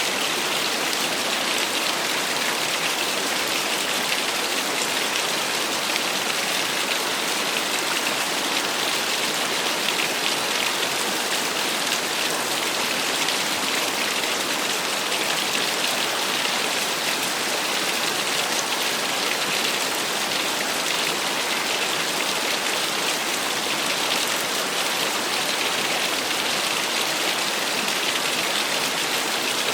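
Small waterfall splashing steadily: an even, unbroken hiss of falling water, heaviest in the upper range.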